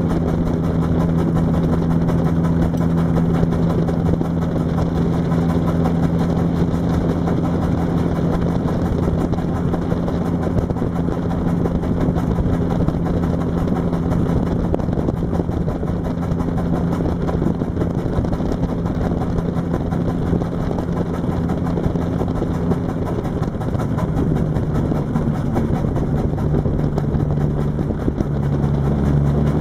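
Track car's engine heard from inside the cabin, running at steady revs under a haze of wind and road noise. Near the end the engine note dips and then picks up again.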